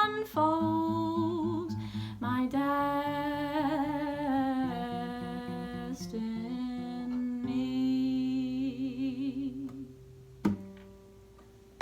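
A woman humming a wordless melody with vibrato over a plucked acoustic guitar, ending the song. The music fades out about ten seconds in, followed by a single knock.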